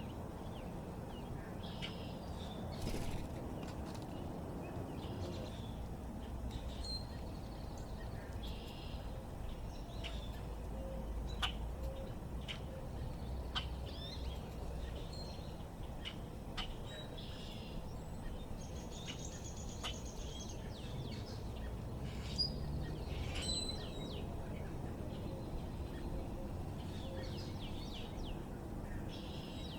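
Backyard songbirds giving short chirps and calls on and off, with a fast trill of about two seconds a little past halfway. A steady low background rumble runs underneath.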